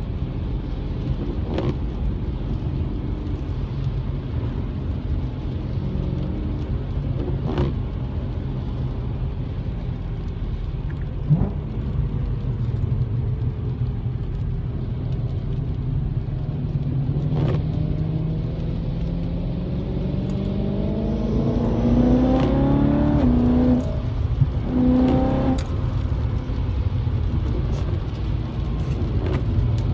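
2011 BMW E92 M3's 4.0-litre V8 heard from inside the cabin at part throttle, under a hiss of tyres on a wet track. About two-thirds of the way in the revs climb, drop sharply at an upshift, then climb again. A few sharp clicks stand out along the way.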